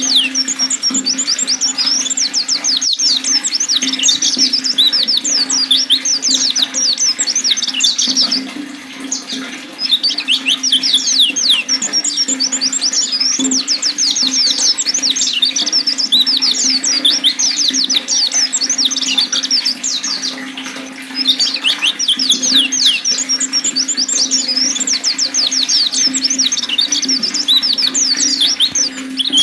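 Pleci (white-eye) song: long, fast phrases of high twittering chirps, breaking off briefly twice, over a steady sound of flowing water.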